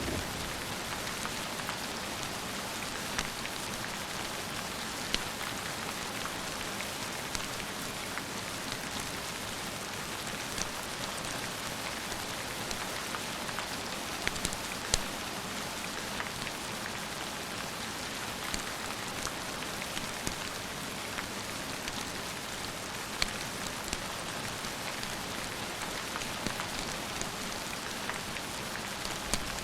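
Steady rain falling, with scattered sharp single clicks standing out now and then.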